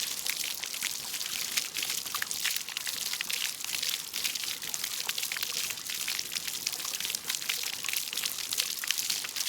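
Water splashing and pouring: a dense, continuous patter of small splashes and drips.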